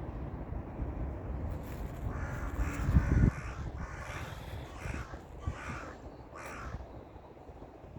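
A bird calling in a series of about five repeated calls over a few seconds. A brief low rumble about three seconds in is the loudest moment, over a steady low background.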